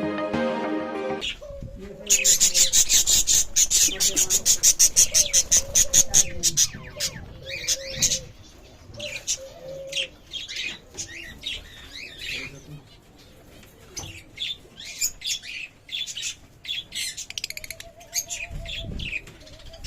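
Parrots calling: a rapid run of loud, shrill chirps lasting about four seconds, followed by scattered chirps and squawks. Background music plays for about the first second.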